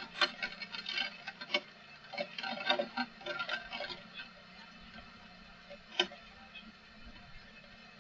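Rain drops tapping on a hard surface in an irregular, dense patter that thins out about halfway, with one louder tap near the end.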